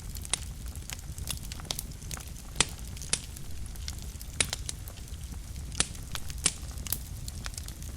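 Wood fire burning in a fireplace: a steady low rumble with irregular crackles and sharp pops from the burning logs.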